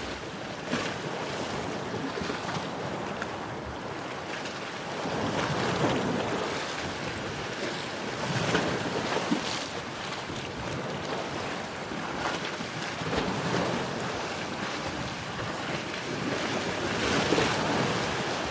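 Ocean waves washing in: a steady rush of surf that swells every few seconds as each wave breaks.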